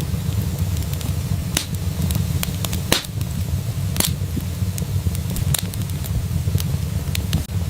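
Wood fire burning in a fireplace: a steady low rumble of flame with scattered, irregular sharp crackles and pops. The loudest pops come about three and four seconds in.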